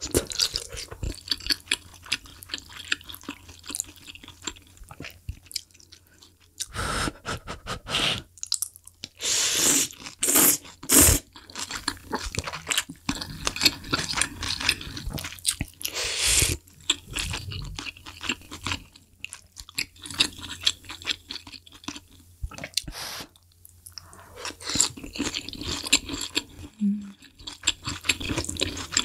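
Close-miked chewing and crunching of spicy hot pot ingredients such as lotus root, wood ear mushroom and tofu, with wet mouth clicks and sips of broth from a wooden spoon. The sounds come irregularly, with a few louder sips or slurps near the middle.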